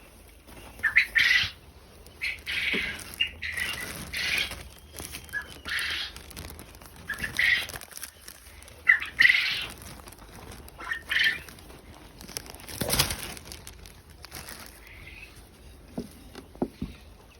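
Quail in an aviary giving short, harsh squawking calls over and over, about one a second, with a brief louder rustling burst about thirteen seconds in.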